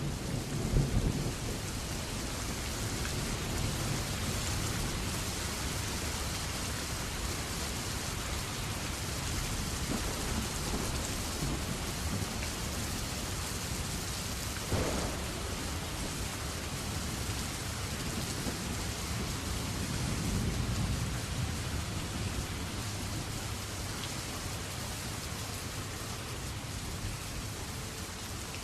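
Steady heavy rain with thunder rumbling, loudest about a second in and swelling again around twenty seconds.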